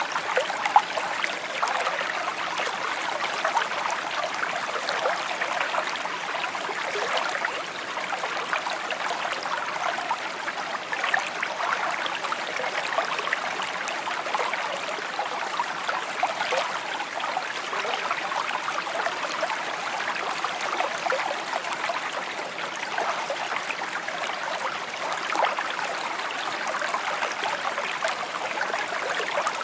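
A small stream babbling steadily: an even rush of running water full of fine trickles and gurgles, with one brief sharper sound about a second in.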